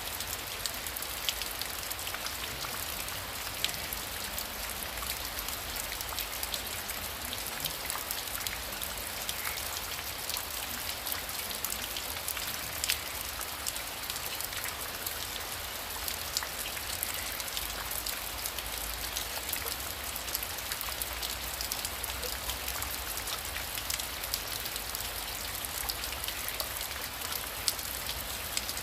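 Heavy rain falling steadily, a dense patter of individual drops over a constant hiss, with a low rumble underneath.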